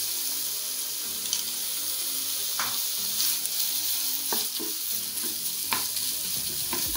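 Minced beef sizzling steadily in a little oil in a non-stick frying pan while it is fried dry to drive off its water, with a few short scrapes and knocks of a wooden spatula stirring it against the pan.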